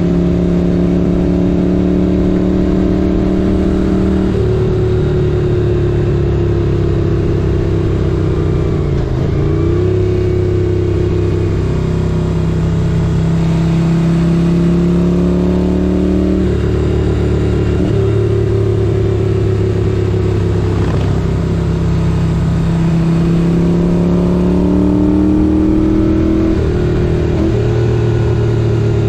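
The 1978 Moto Guzzi 850 Le Mans's air-cooled V-twin pulling the bike along. Its pitch climbs as it accelerates, then drops at each of several gear changes.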